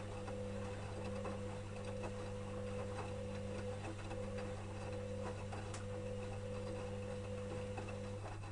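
Electrolux EWS 1045 washing machine running mid-wash: a steady motor hum with faint scattered ticks and clicks. The higher part of the hum cuts off near the end, leaving a lower hum.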